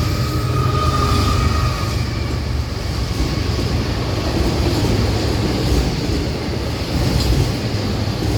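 Florida East Coast Railway freight train rolling past, a steady rumble of freight cars on the rails. The tail of the locomotive's horn fades out in the first two seconds.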